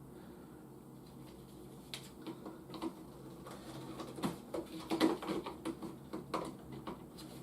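Plastic toy jet being handled: scattered light clicks and taps starting about two seconds in, over a low steady hum.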